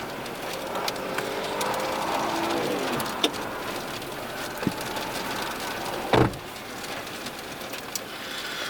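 Steady outdoor rush of wind with a passing vehicle whose engine note falls in pitch about two to three seconds in, scattered small clicks, and one sharp thump about six seconds in.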